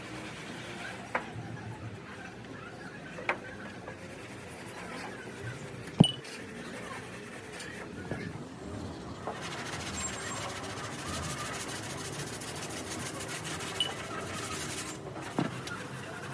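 Workshop background noise with a few scattered sharp knocks or taps, the loudest about six seconds in; a steady hiss comes in after about nine seconds.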